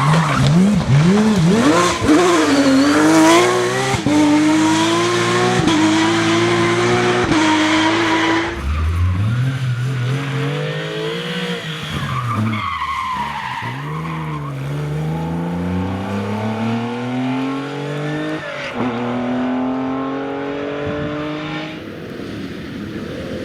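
Porsche rally cars' flat-six engines at full throttle, climbing through the gears with quick upshifts. After a sudden change about a third of the way in, a car's engine drops in pitch as it slows, then pulls hard up through the gears again.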